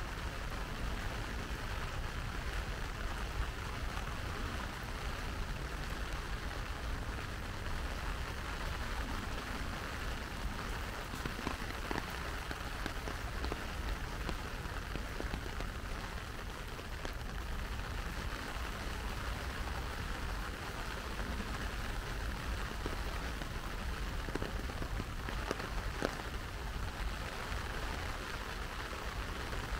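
Steady rain falling, a continuous hiss with a few sharper drop ticks scattered through it.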